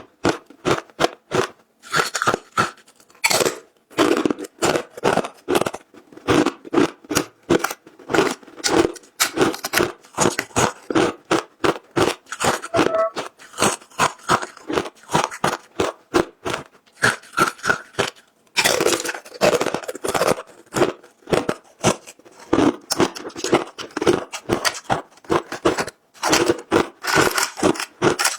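A person biting and chewing frozen matcha ice: a rapid, continuous run of crisp crunches.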